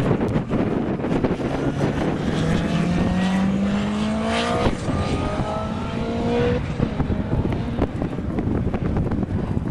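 A vehicle engine accelerating hard, its pitch rising, with a gear change about halfway through, then dying away as it passes.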